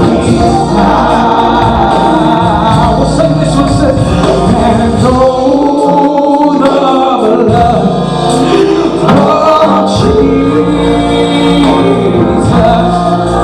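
Live gospel music: a male lead singer with backing voices over band accompaniment.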